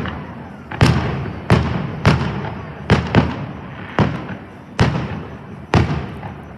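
Aerial fireworks bursting in quick succession, about nine sharp bangs over six seconds, each trailing off in a rumbling echo.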